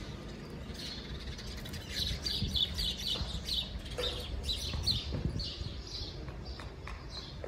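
Small birds chirping: many short, high calls in quick succession, busiest a couple of seconds in, over a low steady rumble.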